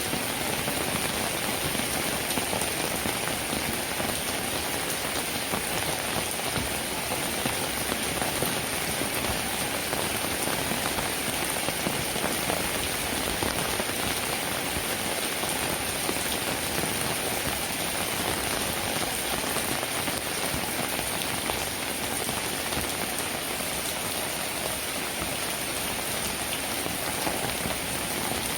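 Steady rainfall: a dense, even patter of raindrops that holds at a constant level.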